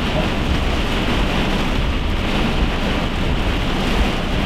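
Heavy thunderstorm rain with wind beating on a vehicle: a steady, dense hiss over a low rumble.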